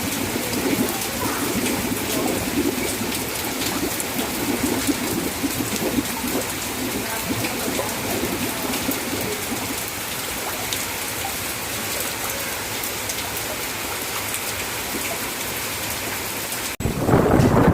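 Heavy rain falling steadily, a dense hiss of drops with a busier low splashing layer through the first half. About a second before the end it cuts off abruptly, and a louder, lower sound takes over.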